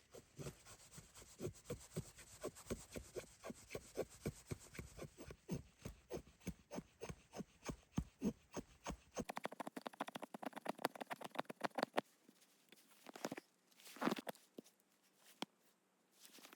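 Hand saw cutting wood in steady back-and-forth strokes, about two a second. About nine seconds in, the strokes turn faster and lighter, followed by a few separate scrapes.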